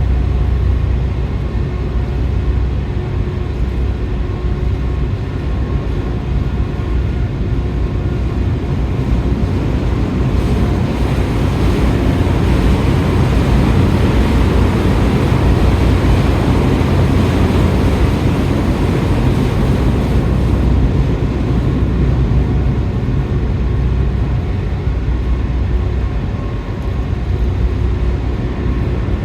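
Steady low engine hum of a large car ferry, with a rushing noise that swells for about ten seconds in the middle and then eases.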